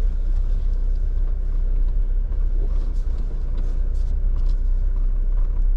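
Jeep crawling along a sandy off-road trail, heard from inside the cab: a steady low engine and drivetrain rumble with a few faint light clicks and rattles.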